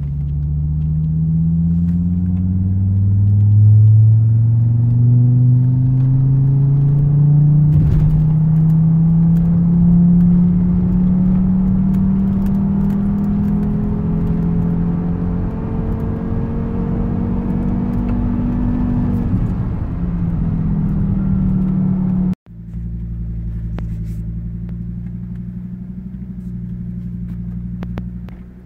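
Volvo turbocharged five-cylinder engine heard from inside the cabin on a third-gear pull, its note climbing quickly at first and then more slowly. About two-thirds of the way through it cuts off abruptly and a steadier, quieter engine drone follows.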